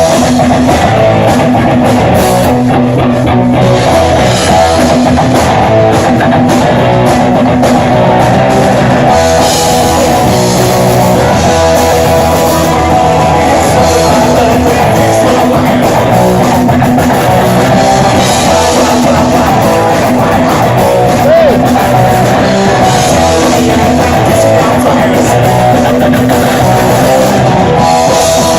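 Live rock band playing loud, with electric guitar and a drum kit, recorded in a small venue.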